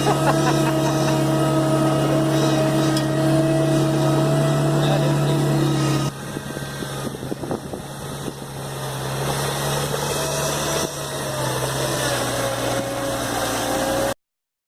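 The engine of a homemade swamp truck running at a steady pitch, dropping off suddenly about six seconds in, then gradually building again. The sound cuts off abruptly near the end.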